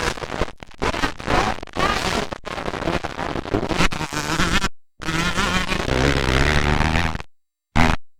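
Motocross bike engines buzzing and revving, their pitch rising and falling, with the sound cutting out abruptly twice.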